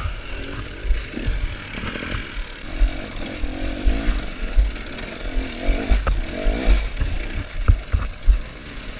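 Two-stroke dirt bike engine revving up and down in bursts as it claws up a rocky hill, with sharp knocks from the bike hitting rocks a few times near the end.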